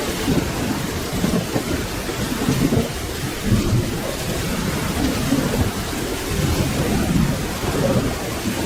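Steady rain with a low, rolling rumble of thunder underneath, with no single sharp crack.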